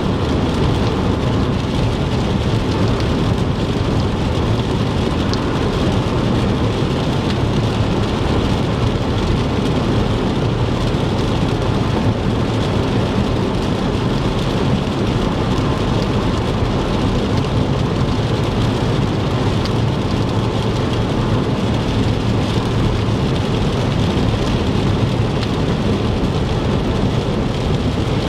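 Steady rumble of a car's tyres on a wet interstate in heavy rain, with rain hitting the car and a few faint ticks.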